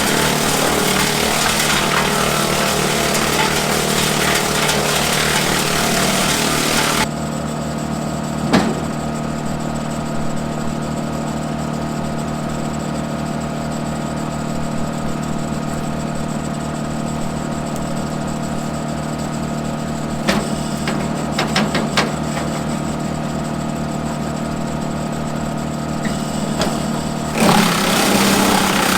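Kubota M7060 diesel tractor running steadily, driving a Woodmaxx WM8H PTO wood chipper, with a few sharp cracks. The sound drops abruptly to a quieter, mostly engine tone about seven seconds in and turns loud and noisy again near the end.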